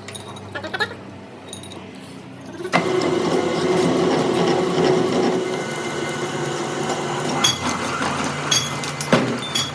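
A workshop machine starts up about three seconds in and runs steadily with a dense mechanical noise and a hum, with a few sharp clicks near the end.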